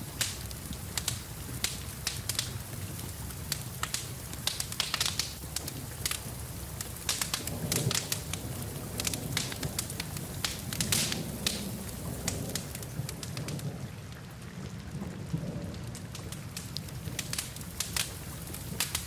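Wood fire crackling and popping over the steady patter of rain, with a low rumble underneath.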